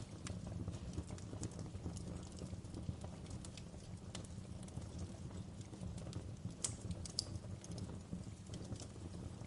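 Campfire burning: a steady low rumble of flame with irregular crackles and snaps from the wood, and a couple of sharper pops about two-thirds of the way through.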